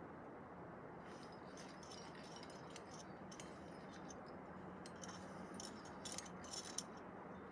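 Faint metallic clinking and rattling of climbing hardware, carabiners and protection gear jostling on a harness, over a steady low hiss, with a few sharper clicks near the end.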